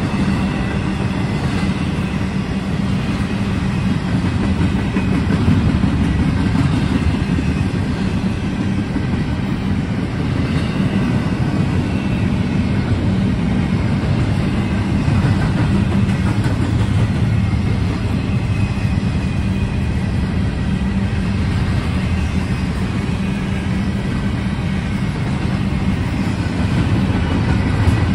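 Train rolling past, its railcars' wheels on the rails making a steady, continuous rumble with some clickety-clack.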